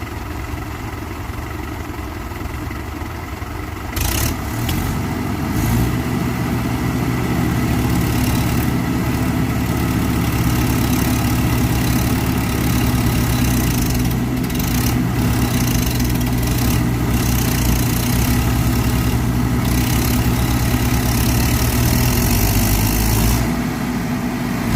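Swaraj tractor diesel engine running, then revved up hard about four seconds in and held at high revs under load while pulling the stuck tractor out of the mud, easing off near the end.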